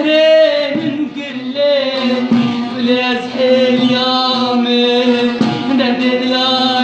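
A man singing a Kurdish song in long, drawn-out melodic phrases over a steady held tone.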